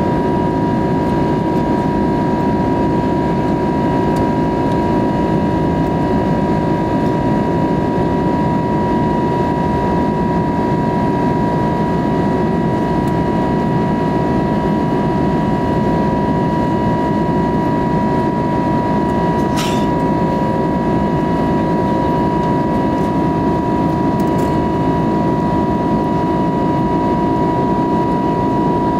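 Airbus A320neo cabin noise in flight: a steady rush of engine and airflow with a steady high whine from the Pratt & Whitney PW1100G geared turbofans. A single short click about two-thirds of the way through.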